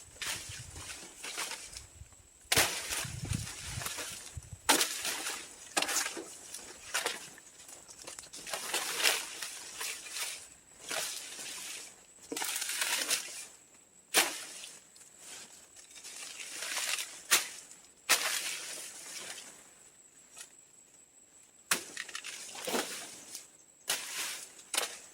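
Dry leaves and plant stalks rustling and crackling as they are handled or trodden through, with scattered sharp snaps and irregular pauses.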